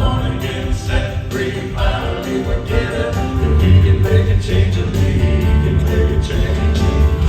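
Live southern gospel band music with a steady beat.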